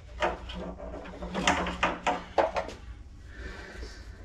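A quick run of knocks and clicks over about three seconds, like objects being handled and set down, then quieter.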